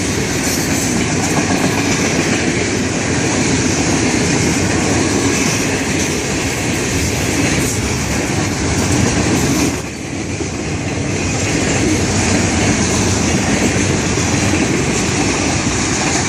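Freight train's cars rolling past at close range: a steady rumble with wheels clattering over the rail joints. The sound dips briefly about ten seconds in, then picks back up.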